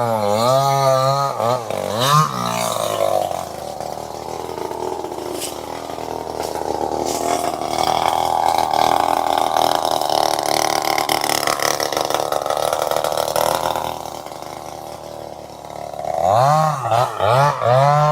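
Two-stroke chainsaw engine with its throttle pumped, the pitch wavering quickly up and down, then held at high revs for about ten seconds. It drops back near the end and starts wavering again.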